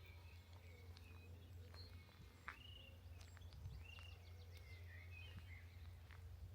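Faint birdsong from several small birds: scattered chirps and short whistled notes, some sliding up or down, over a low steady rumble.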